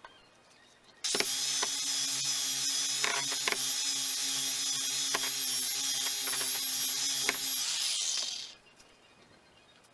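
A small high-speed power tool running steadily with a high-pitched whine for about seven seconds, with a few sharp clicks as it works, then winding down and stopping.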